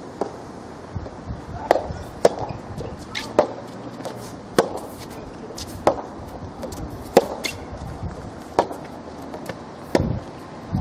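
Soft tennis rally: the soft rubber ball struck back and forth by rackets, a sharp hit a little more than once a second, with fainter ticks between.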